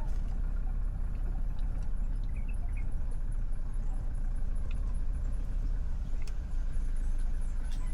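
Steady low rumble of a motor vehicle engine running, with no change in pitch.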